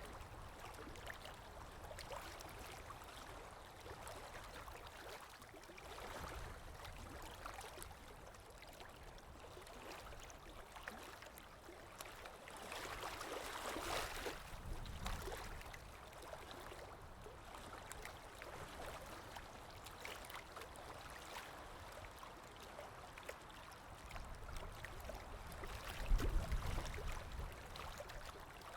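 Water lapping with wind, an ambient recording: a steady, irregular wash of small splashes, with a louder swell about halfway through and a low gust of wind near the end.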